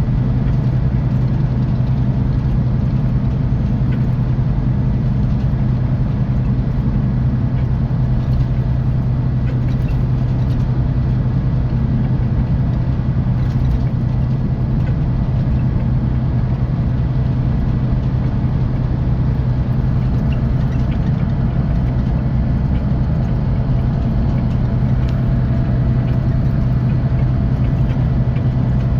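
Scania K450EB coach's 13-litre inline-six diesel running steadily with an even low hum, heard from inside the bus.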